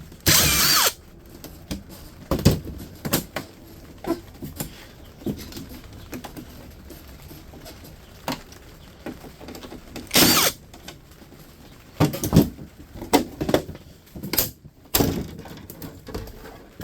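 Knocks, clicks and clattering from a dehumidifier's casing being taken apart by hand, with a few louder rattling bursts of about half a second near the start and again in the second half.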